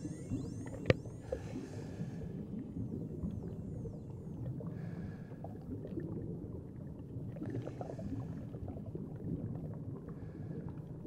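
Underwater sound picked up through a camera housing: a muffled, crackling rumble of moving water, with a single sharp click about a second in.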